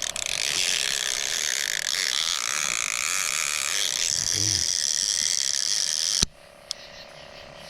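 A fishing reel's bait clicker buzzing steadily as a fish takes the bait and pulls line off the spool. It cuts off suddenly with a click about six seconds in.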